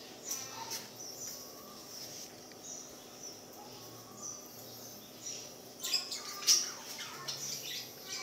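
Small birds chirping in the background, with a few sharper, louder squeaks about six seconds in.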